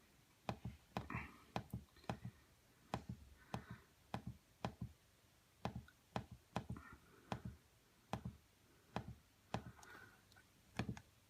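Faint, sharp clicks of the push buttons on an Ideal Vogue combi boiler's control panel being pressed one after another at an irregular pace, often in quick pairs, as its menus are stepped through.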